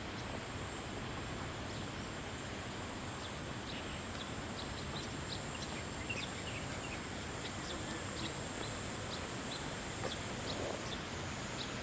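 A steady, high-pitched insect chorus, typical of cicadas or crickets, with many short bird chirps scattered over it, thickest in the middle.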